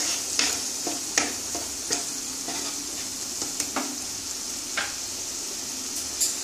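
Spice paste sizzling in mustard oil in a nonstick kadai, a steady hiss, while a wooden spatula stirs and scrapes it, knocking on the pan about once a second for the first few seconds and a couple of times more later on.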